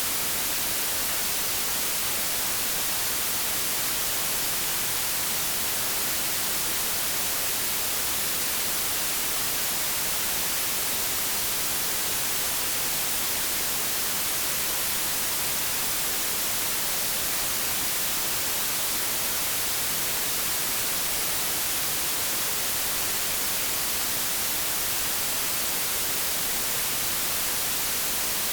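Steady white noise, an even hiss weighted toward the treble and unchanging throughout, like TV or radio static.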